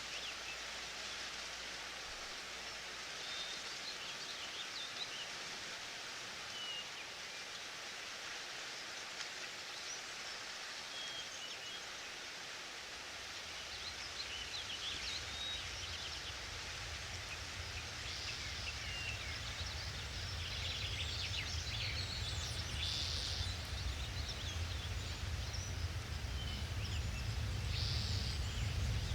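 Forest ambience: a steady high hiss of rustling leaves, with scattered short bird chirps. From about halfway a low rumble comes in and slowly grows louder.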